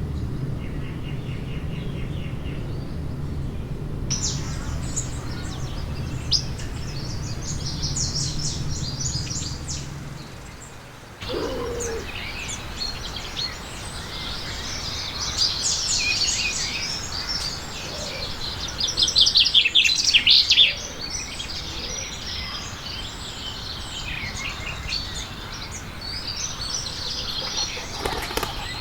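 Birds chirping and twittering in many short high calls and trills, with a louder run of rapid trills about two-thirds of the way through. A low steady hum lies under the first third and stops abruptly.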